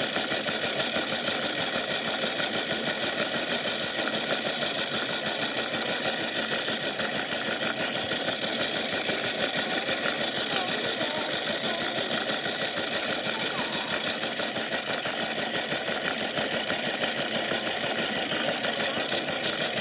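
Washing machine running steadily with a big rock tumbling inside its drum, a continuous dense mechanical clatter.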